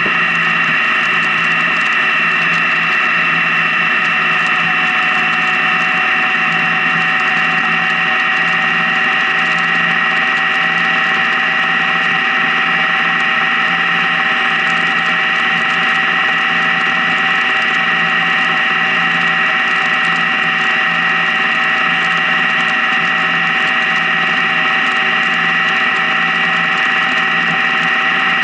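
Honda Gold Wing motorcycle cruising at a steady speed on the highway: a constant engine and road drone with steady whining tones that hold one pitch throughout.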